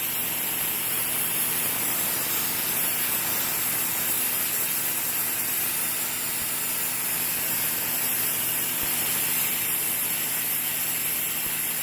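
Sun Joe SPX3000 electric pressure washer spraying steadily through its 15-degree nozzle: an even hiss of the water jet over a steady hum from the electric motor and pump.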